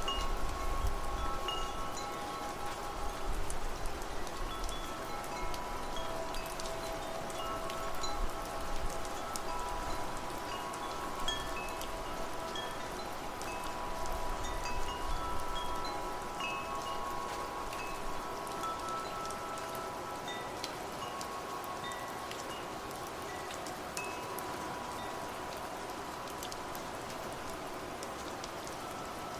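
Wind chimes ringing, several long overlapping tones, over a steady patter of rain; the chimes thin out near the end, leaving mostly rain.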